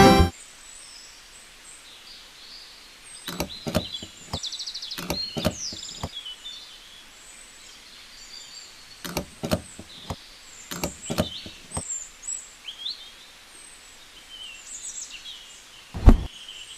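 Birds chirping throughout, with scattered sharp knocks and taps in small clusters and one louder thump near the end.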